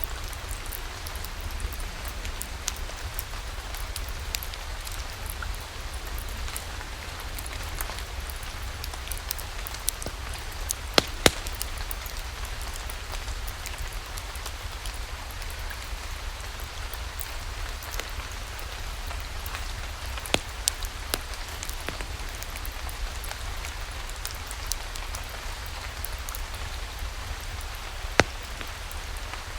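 Steady rain falling, mixed with a wood fire crackling in a fireplace. A few scattered sharp pops stand out above the rain, the loudest about eleven seconds in and again near the end.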